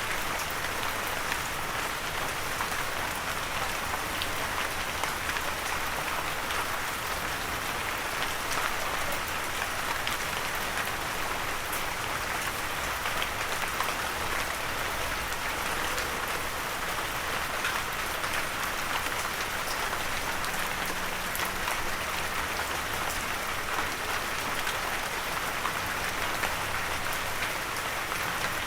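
Steady gentle rain falling on surfaces, an even hiss dotted with many small drop ticks, with no thunder.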